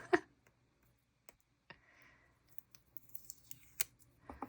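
Scattered light clicks and taps from handling paper washi stickers on a journal page, with a brief soft rustle about halfway through.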